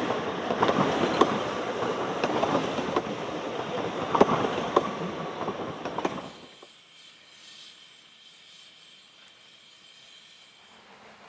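Narrow-gauge train rolling close by, its wheels rumbling and clicking sharply and irregularly over rail joints. About six and a half seconds in the sound cuts off suddenly, leaving only a faint high hiss.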